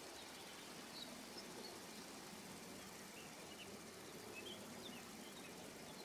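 Faint outdoor ambience: a steady low hiss with scattered brief, high bird chirps every second or so.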